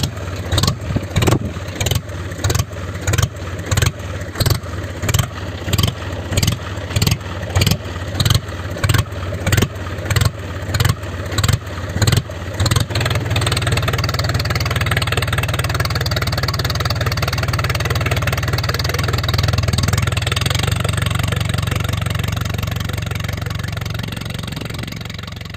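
Tractor-style engine sound: a low chugging with regular thumps nearly twice a second, changing about halfway through to a steady running drone that eases off slightly near the end.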